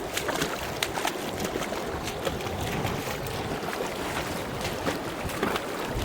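A fast mountain river rushing, with many small splashes and gurgles over a steady roar.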